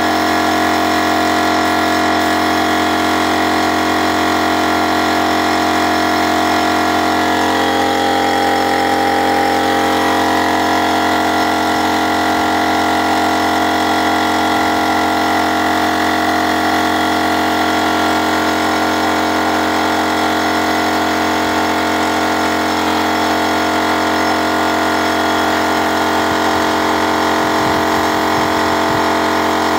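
Car engine running steadily, a constant mechanical drone with several fixed tones, heard from inside the car; the middle tones shift slightly about eight seconds in.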